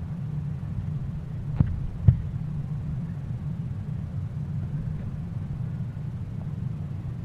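A steady low rumble, with two sharp clicks about half a second apart between one and two seconds in.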